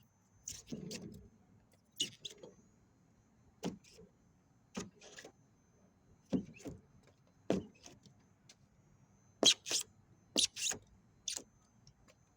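Chisel scraping and chipping at the insulation in a refrigerator's molded plastic trench, in about ten short, sharp strokes spaced irregularly, a couple of the strongest coming in quick pairs late on.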